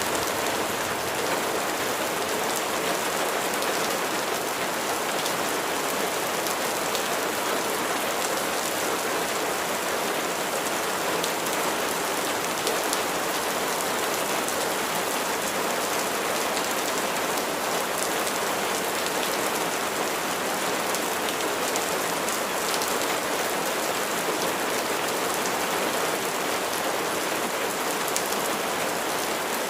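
Steady rain falling, a dense even hiss of raindrops hitting a surface, with no let-up and no thunder.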